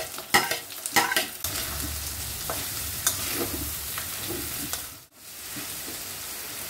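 Dried Bombay duck (loitta shutki) frying in hot oil in a kadai, sizzling steadily while it is stirred, with sharp clicks of the stirring utensil against the pan in the first second and a half. The sizzle breaks off briefly about five seconds in, then carries on.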